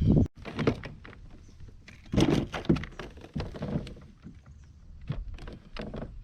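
A series of knocks and thunks, the loudest near the start and again around two to three seconds in, with lighter clicks between them; typical of gear being handled on a kayak.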